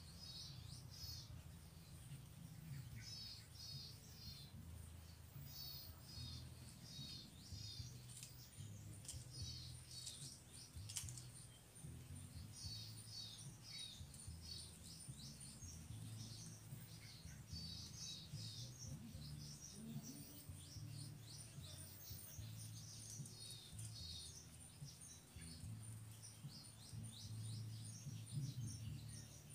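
Small birds chirping: short runs of three to five quick, falling high chirps, repeated every second or two, over a thin steady high whine and a low hum.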